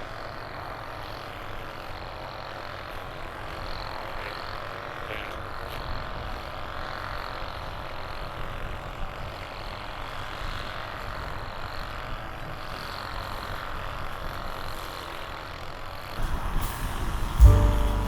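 Car in motion: steady engine and road noise, growing louder in the last two seconds.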